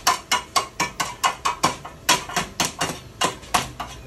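A hammer striking metal in a fast, even rhythm, about four blows a second, each blow with a short metallic ring.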